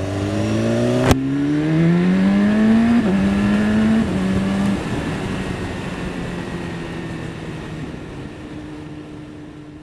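BMW S1000RR inline-four engine pulling hard with the revs climbing, then dropping in pitch in a few quick steps like upshifts. It then settles into a steady note that gradually fades.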